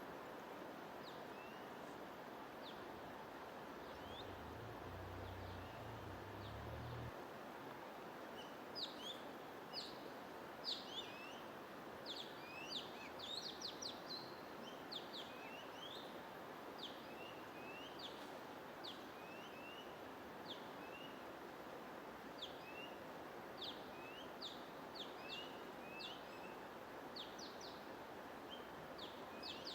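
Small birds chirping in quick, high, short calls over a steady rushing noise. The chirps are sparse at first and come thick and fast from about eight seconds in.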